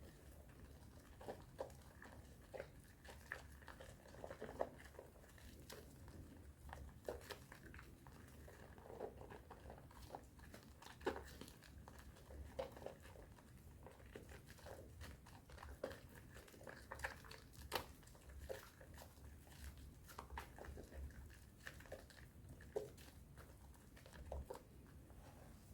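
Aist strawberry soap bar being lathered by hand in thick foam with powder: quiet, irregular wet squishing and crackling of the foam, with small sharp clicks here and there.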